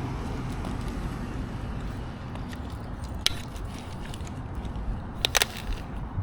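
A person walking on a park trail: a steady low rumble, with a sharp click about three seconds in and a quick cluster of clicks near the end.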